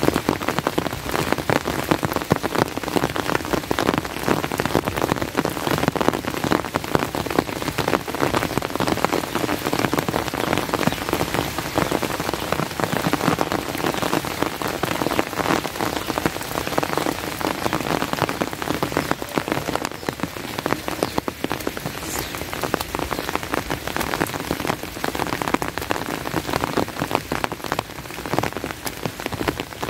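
Steady rain, a dense patter of many individual drops.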